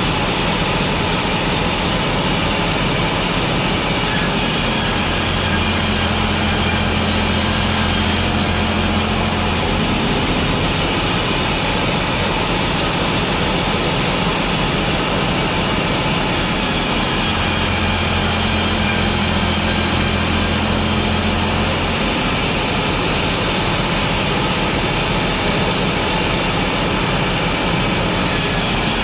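Slab-board sawing machinery running loudly and without a break. A deeper hum comes in for about four to five seconds roughly every twelve seconds, in a repeating cutting cycle.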